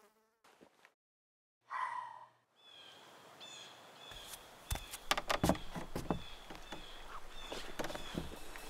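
Outdoor ambience with a small bird chirping over and over at a high pitch, about twice a second. From about four and a half seconds in come several thumps and knocks of rubber boots being pulled on and knocked against wooden porch boards.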